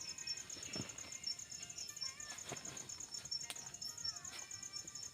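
Night insects trilling steadily, a high-pitched train of rapid even pulses, with a few faint knocks and some faint wavering tones underneath.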